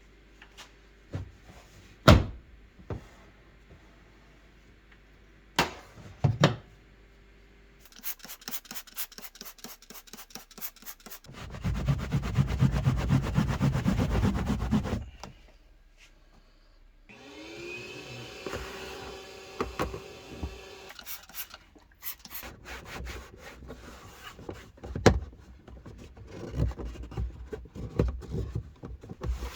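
Scrubbing and rubbing on a hard surface, with scattered knocks and bumps as parts are handled. A run of fast back-and-forth strokes starts about eight seconds in, and the loudest, densest scrubbing comes a few seconds later.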